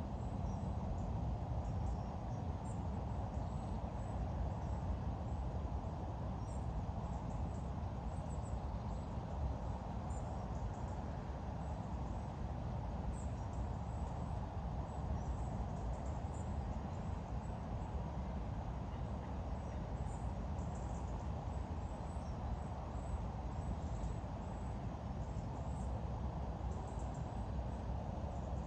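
Outdoor ambience: faint, scattered small bird chirps over a steady low rumble.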